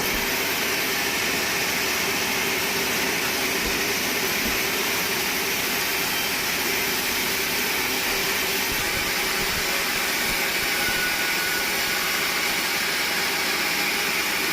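Sawmill machinery running with a steady, unbroken whirring noise and a faint constant hum, with no cut starting or stopping.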